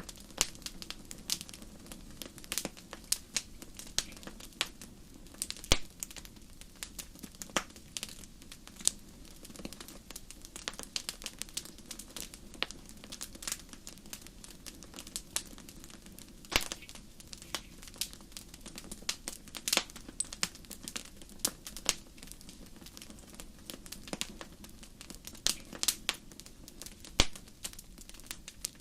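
Wood fire burning in a fireplace, crackling and popping at irregular moments, a few pops much louder than the rest, over a faint steady low hiss.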